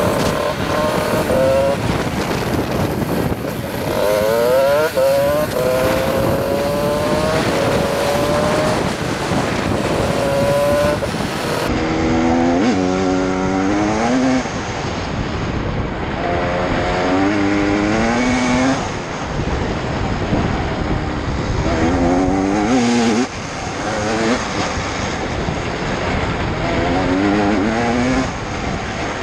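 GasGas 250 EC two-stroke enduro motorcycle engine revving up in repeated rising sweeps and dropping back as the rider accelerates and shifts, with wind rushing over the helmet camera.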